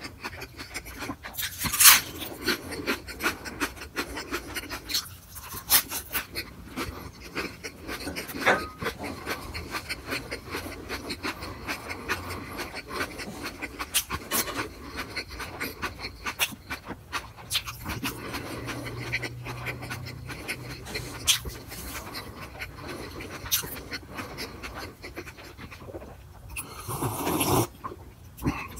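Close-miked chewing of a soft filled tortilla wrap: wet smacking and sharp little mouth clicks, with breathing through the nose. Near the end, a louder stretch of sipping and swallowing from a glass.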